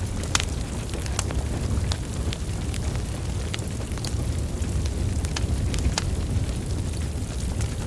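Burning wood logs crackling, with sharp irregular pops over a steady low rumble of flames.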